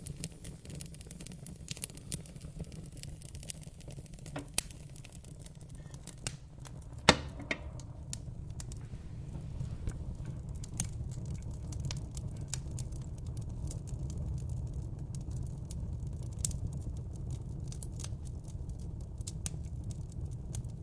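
Fireplace fire crackling and popping over a steady low rumble, with one loud pop about seven seconds in.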